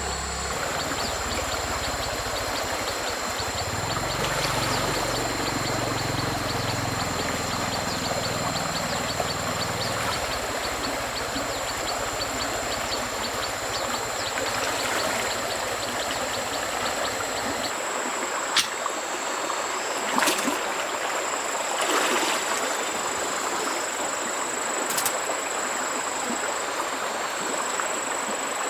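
A mountain stream running steadily over rocks, with a few sharp knocks in the second half.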